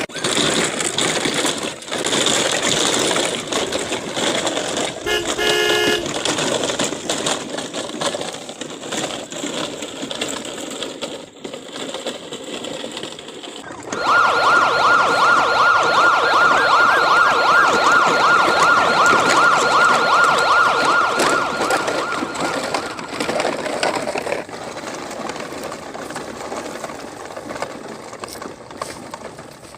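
Police siren warbling rapidly and loudly for about eight seconds, starting about halfway through and fading out. Before it there is a steady noisy background, with a brief horn toot about five seconds in.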